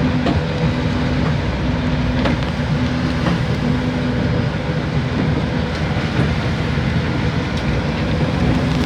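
Fishing boat's engine running steadily, heard on board, with a low rumble and a tone that comes and goes.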